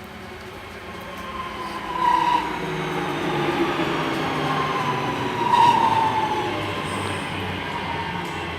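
Class 323 electric multiple unit drawing into the platform and slowing, its whine falling in pitch, with two squeals about two and five and a half seconds in.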